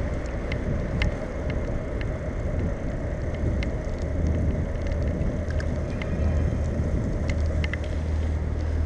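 Riding noise of a bicycle heard from a camera on the bike: a steady rumble of tyres on the road and wind on the microphone, growing stronger about halfway through, with scattered small clicks and rattles.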